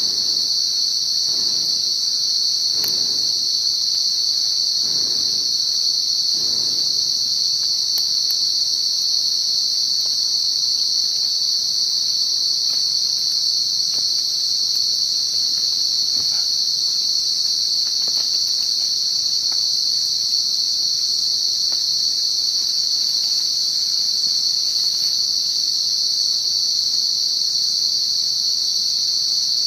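Night insects, crickets, trilling in a continuous, steady, high-pitched chorus that does not let up.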